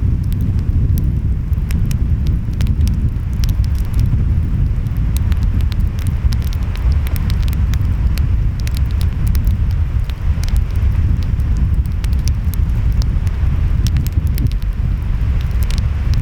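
Wood fire crackling, with many sharp pops and snaps, over a steady low rumble of waves and wind.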